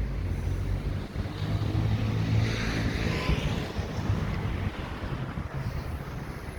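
A motor vehicle driving past on the street: engine rumble and tyre noise swell to a peak about two and a half seconds in, then fade away.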